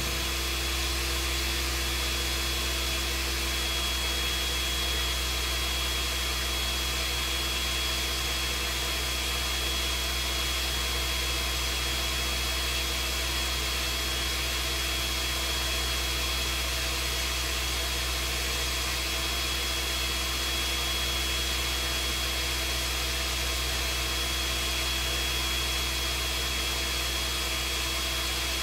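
Electric mixer motor running steadily without a break, beating cake batter until it is smooth.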